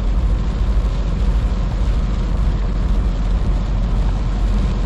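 Semi truck cab interior while driving at highway speed: a steady, deep drone of engine and road noise.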